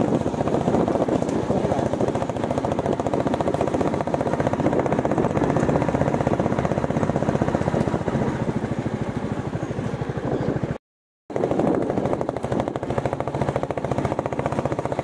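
Royal Enfield Bullet 350's single-cylinder engine running on the move, a steady, rapid thumping exhaust beat. The sound cuts out for about half a second roughly eleven seconds in, then resumes.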